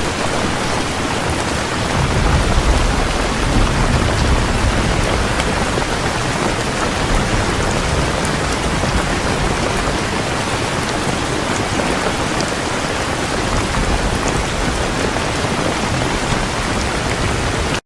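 Heavy rain pouring steadily, with a low rumble swelling about two seconds in. The sound stops abruptly at the very end.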